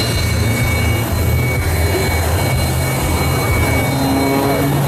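Su-30MKM fighter's AL-31FP turbofan engines running, a steady high whine over a dense low rumble.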